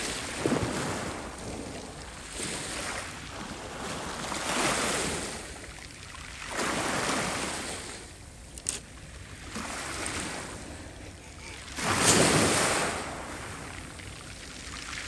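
Black Sea waves breaking on the shore, each surge swelling and falling away every two to three seconds, the loudest about twelve seconds in, with wind on the microphone.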